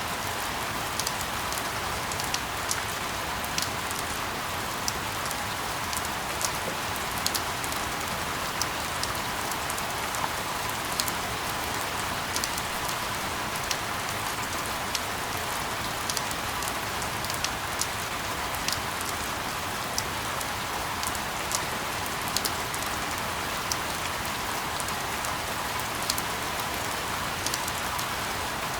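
Steady rain: an even hiss with many sharp drop taps scattered irregularly through it.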